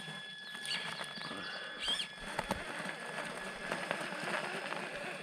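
Traxxas TRX6 6x6 RC crawler's tyres spinning and scrabbling in pea gravel on a step, with a steady crunching and many small gravel clicks as the tyres dig in.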